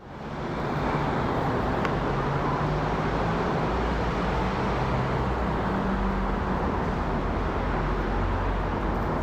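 Steady jet noise from an Airbus A380's four Rolls-Royce Trent 900 turbofans as the airliner flies overhead, with a low hum that wavers in pitch.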